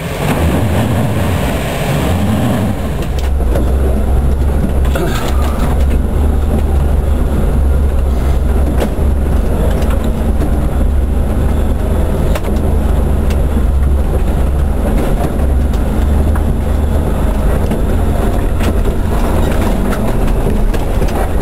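Off-road 4x4's engine heard from on board while driving, a loud, steady, deep drone with little change in pitch.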